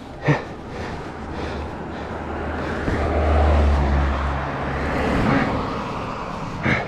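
A road vehicle passing by, its engine rumble and road noise swelling to a peak about three to four seconds in and then fading.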